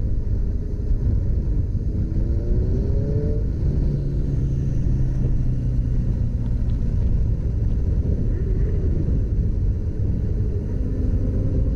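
Motorcycle engine running under way with a steady low rumble of road and wind noise; the engine tone rises about two seconds in as it revs up, then holds steadier.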